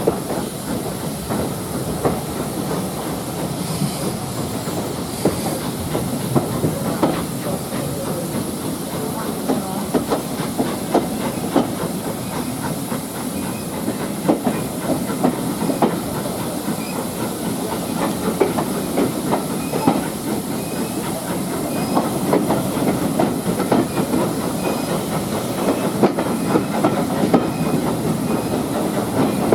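Steam train running: a steady hiss of steam with the clatter of wheels over the rails.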